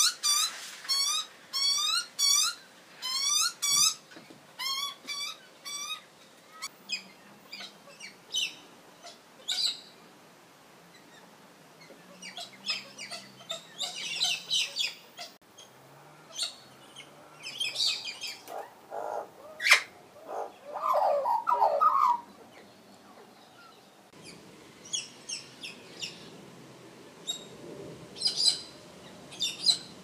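Grey butcherbirds and Australian magpies calling at a feeding ledge: a fast run of repeated calls at first, then scattered short chirps, with a lower warbling phrase a little past the middle.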